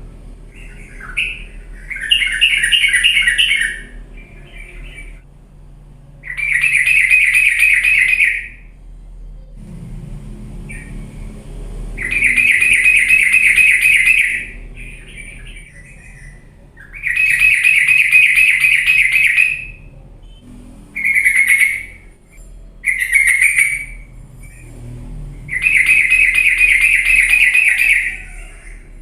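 Yellow-vented bulbul (trucuk) singing in a lively 'gacor' style: a bubbly, chattering phrase about two seconds long, repeated roughly every five seconds, with two shorter bursts close together past the middle.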